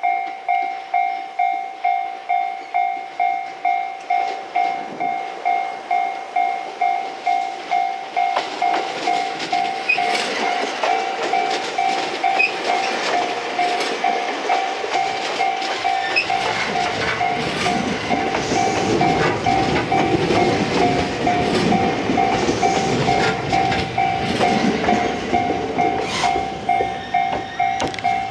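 A level-crossing alarm dings steadily, about one and a half times a second. From about eight seconds in, an out-of-service electric train approaches and passes close by, its wheels and running gear rumbling, and the rumble eases near the end.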